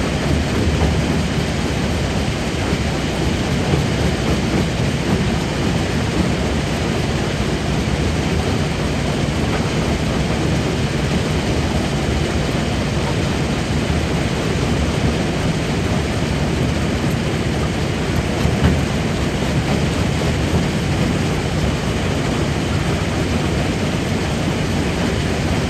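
Jaw crusher working on rock: a loud, steady heavy rumble with no break or rhythm, heaviest in the low end.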